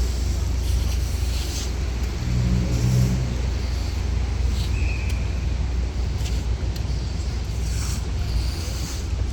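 Low steady rumble of road traffic, with one vehicle's engine briefly louder about two to three seconds in.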